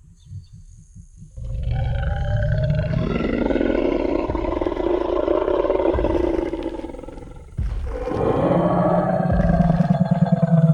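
Tyrannosaurus rex roar sound effect. A quiet, low rumbling growl leads into a long roar of about six seconds that fades out, and a second roar begins about eight seconds in.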